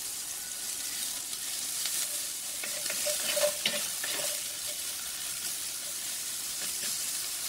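Eggplant slices sizzling steadily in sunflower oil in a cast-iron skillet. A wooden spatula stirs and turns them, scraping and knocking against the pan a few times around the middle.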